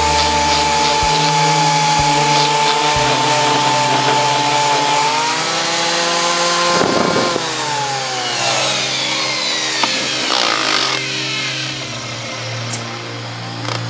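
Electric power tool motor running with a steady whine over a grinding rasp. About five seconds in its pitch rises, and after about seven seconds it winds down in falling glides.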